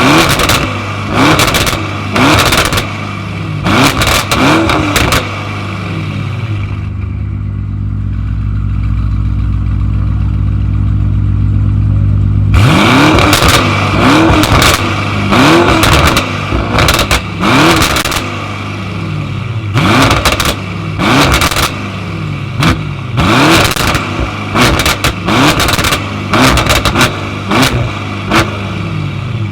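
Tuned car engine revved in quick, repeated blips about once a second, each rising sharply, with sharp exhaust pops and cracks between the revs. About six seconds in it settles to a steady idle for several seconds, then the blipping and popping start again.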